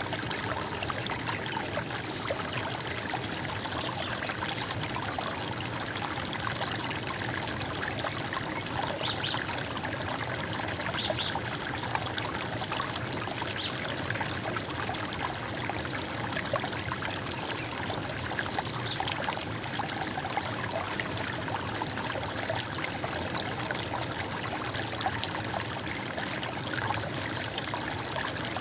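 Stream of running water, a steady gurgling flow.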